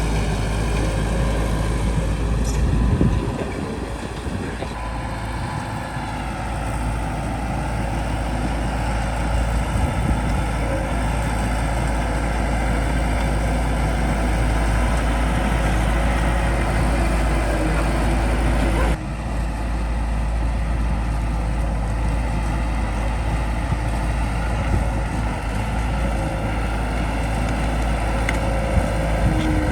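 Bulldozer's diesel engine running steadily. The sound dips about three seconds in and changes abruptly about two-thirds of the way through.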